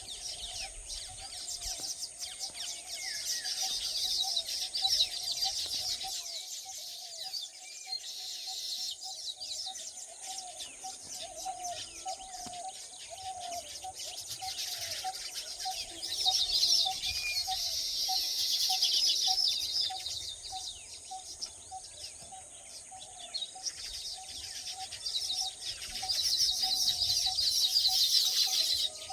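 Birds calling: a short note repeated about two to three times a second, with louder bursts of high, rapid chirping that come and go, over a steady high-pitched drone.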